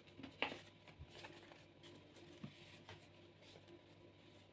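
Near silence with a few faint taps and rustles of tarot cards being handled, the sharpest about half a second in.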